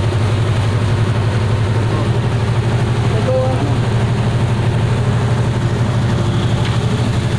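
An engine idling steadily, a constant low hum with an even, fast pulse.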